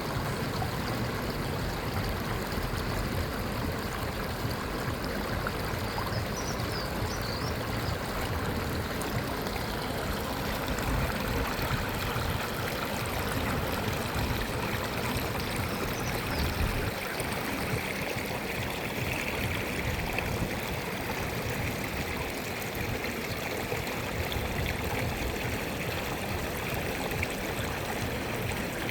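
Water from a park fountain and waterfall splashing and rushing in a steady, unbroken stream.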